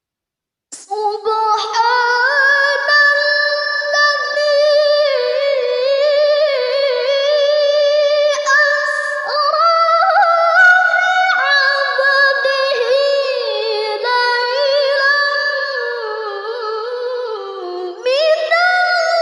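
A woman's voice chanting Quranic recitation (tilawah) in one long melismatic phrase, with held, ornamented notes that sink gradually in pitch. It starts after a moment of silence and a new, higher phrase begins near the end.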